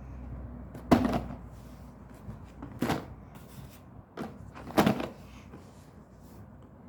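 Handling of a cardboard box of coffee capsules: three sharp knocks about two seconds apart, with lighter taps and rustling between them.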